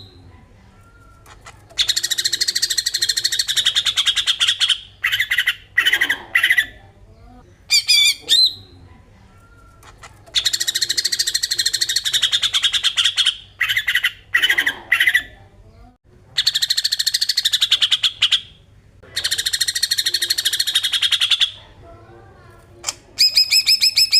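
Cucak ijo (greater green leafbird) giving its besetan song: long, very fast, buzzy rattling trills of about three seconds each, repeated four times, with short sharp notes between. Near the end the bird switches to a quick run of clearer, evenly spaced notes.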